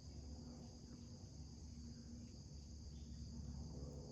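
Faint, steady insect chorus, a high even buzz, with a low rumble underneath.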